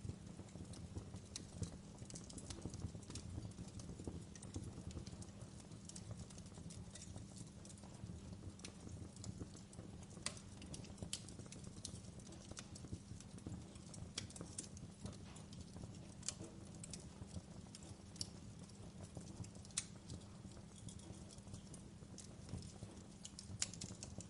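Fire in a fireplace crackling quietly: irregular sharp pops and snaps over a steady low rumble.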